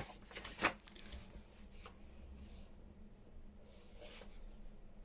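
Paper page being cut and handled: a sharp click at the start and another under a second in, then faint rustling of paper.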